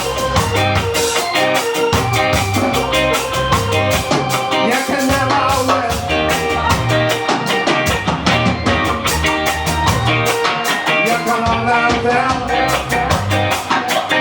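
Live ska band playing an upbeat song, with guitar, bass and drum kit in a steady, evenly pulsed rhythm and some singing over it.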